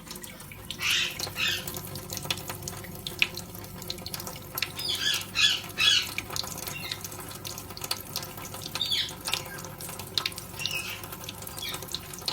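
Tap running steadily into a kitchen sink where Indian ringneck parrots are bathing, with scattered splashes and a few short parrot calls, the loudest about five to six seconds in.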